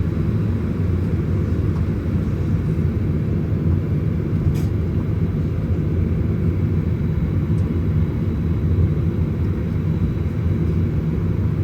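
Cabin noise of a Boeing 737-900ER on the ground before takeoff: a steady low rumble of its CFM56-7B engines at low thrust and the cabin air, even and unchanging. A faint click about four and a half seconds in.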